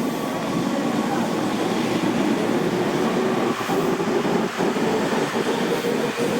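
Tobu Tojo Line electric commuter train running on the rails: a steady rumble with a motor whine that shifts in pitch, and a few clicks of wheels over rail joints around the middle.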